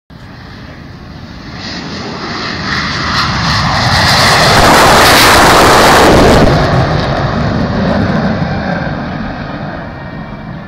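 General Dynamics F-111's twin Pratt & Whitney TF30 turbofans on a flypast: loud jet noise that swells, peaks about five to six seconds in, then fades as the jet moves away.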